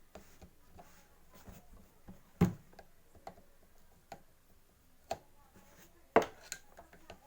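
Scattered light clicks and knocks of parts being handled on a pump while its plastic cap is screwed down by hand, with two sharper knocks about two and a half and six seconds in.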